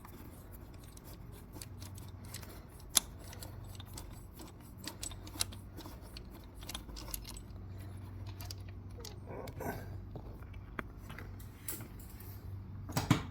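Scattered light metallic clicks and clinks of hand tools and small steel parts being handled, with a sharper click about three seconds in and a cluster of clinks near the end, over a steady low hum.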